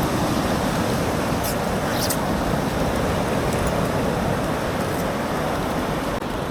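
Steady rushing noise of wind buffeting the microphone, with a few faint clicks.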